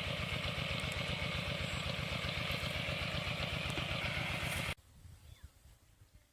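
Small engine idling with a steady, rapid putter, cutting off abruptly about three-quarters of the way through and leaving only faint background.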